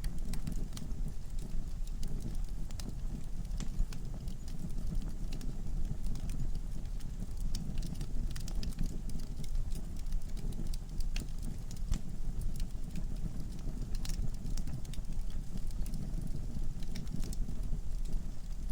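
Wood fire crackling in a fireplace: irregular sharp pops and snaps from the burning logs over a low, steady rumble of flame.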